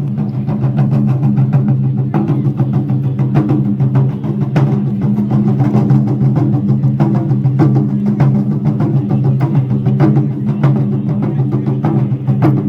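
Japanese taiko drumming: a fast run of drum strikes over a deep, steady resonant hum.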